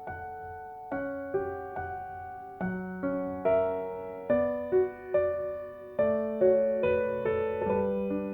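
Background music: a gentle solo piano melody, notes struck one after another and left to ring.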